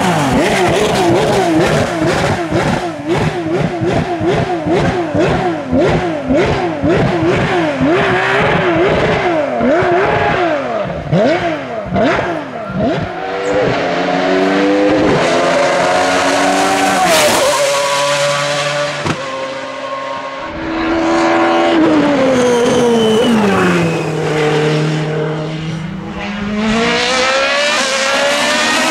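Hillclimb race car engines revving hard at full attack. For the first half the pitch swings rapidly up and down, with a rapid run of sharp crackles. After that the engine note climbs in steps through gear changes, drops away, then rises again near the end.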